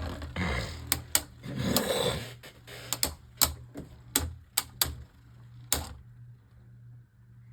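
Spinning Beyblade Burst tops clashing in a plastic stadium: rapid, irregular sharp clacks over a whirring rattle, thinning out and dying down after about six seconds.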